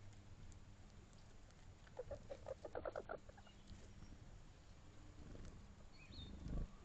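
An animal's quick run of about ten short, low, clucking calls lasting just over a second, followed later by a faint high bird chirp and a soft low thud near the end.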